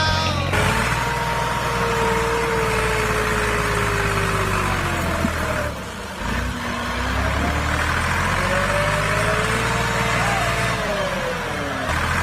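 A motor running steadily with a low hum under a whine that slowly drops in pitch, briefly dips in level about six seconds in, then climbs back up.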